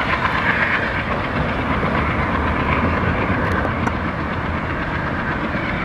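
Passenger train's coaches rolling away along the track: a steady rumble of wheels on rail, a little quieter after the first second.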